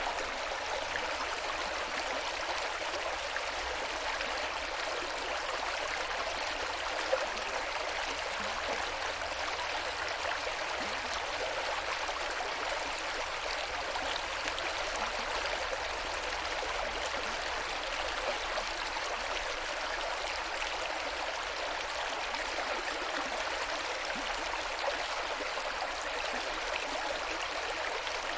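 River water flowing steadily, an even rushing with no change in level; one brief tick about seven seconds in.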